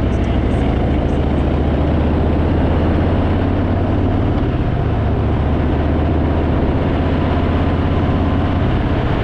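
Harley-Davidson Fat Boy's V-twin engine running steadily under way, its low note holding even, under a steady rush of wind noise.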